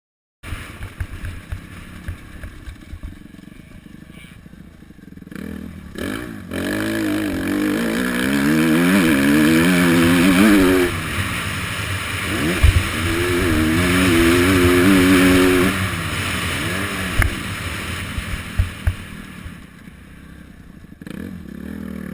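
Motocross dirt bike engines revving up and down over and over as they ride the track. They are loudest through the middle and fade out toward the end.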